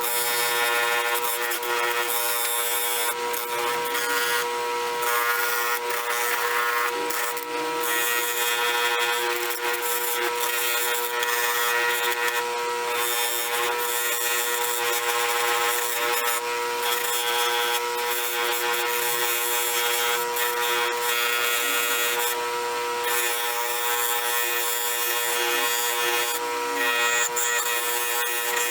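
Power tool spinning a coarse fiber abrasive wheel, a steady motor whine with scratchy grinding as rusty steel is held against it, stripping off rust and coating.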